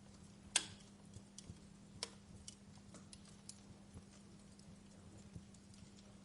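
Wood fire crackling in a fireplace: scattered sharp pops and snaps at irregular intervals, the loudest about half a second in and again about two seconds in, over a faint steady low hum.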